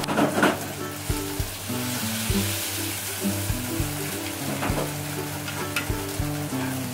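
Beaten eggs sizzling in a hot frying pan as they are stirred with chopsticks and set into soft scrambled eggs.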